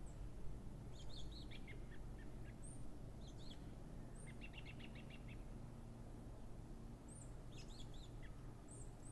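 Small birds chirping: scattered short high calls, with a quick run of rapid notes about four to five seconds in and more calls near the end, over a low steady hum.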